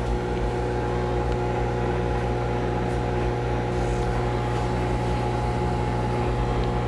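Microwave oven running with a steady, even hum while it heats marshmallows and butter.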